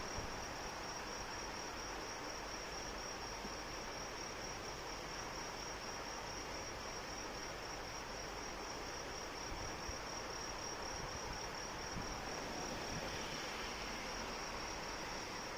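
Crickets trilling steadily in a rapid, even pulse at a high pitch, over the steady hiss of falling rain.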